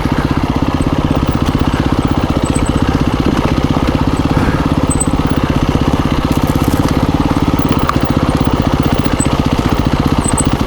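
2017 KTM 350 EXC-F dirt bike's single-cylinder four-stroke engine running at steady low revs, with an even rapid exhaust pulse.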